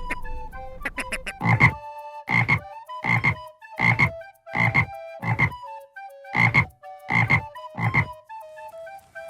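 An animal calling nine times in a row, each call short and loud, a little under a second apart, over soft background music.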